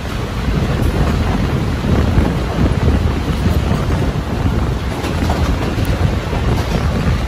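Steady low rumble of a moving passenger train, with wind buffeting the microphone heavily.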